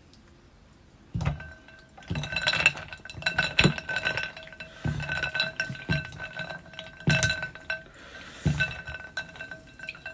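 Repeated clinks and knocks on a hard glass or ceramic dish, starting about a second in. A steady ringing tone hangs on between the strikes.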